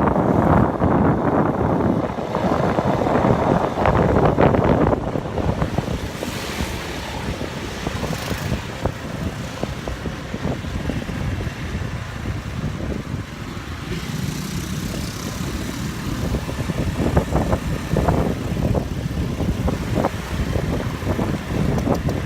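Riding noise on a motorbike: wind buffeting the microphone over the hum of the bike and road traffic. It is loudest for the first few seconds, then settles to a steadier rush.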